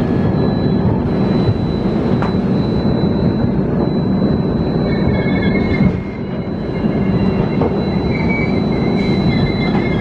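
Passenger train running through a rail yard, heard from aboard a coach: a steady rumble of wheels on the rails, with thin high wheel squeal coming in about halfway and again near the end.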